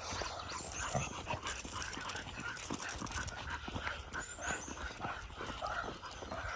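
Pit bull dogs panting while being walked, with light, irregular ticks throughout.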